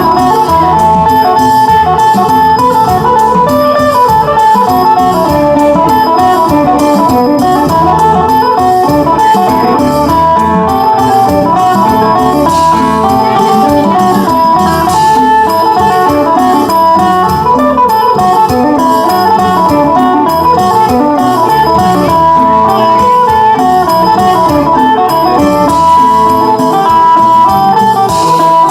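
Thai phin, the Isan plucked lute, playing a fast melody of quick plucked notes without a break.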